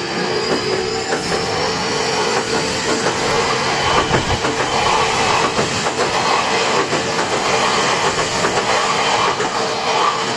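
Odakyu electric train passing over a level crossing, its wheels clattering steadily over the rail joints. A level-crossing warning bell keeps ringing as a steady tone.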